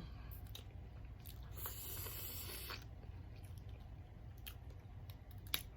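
Faint close-up eating sounds: soft wet chewing and squishing of food, with a few small clicks and a short rustly patch about two seconds in.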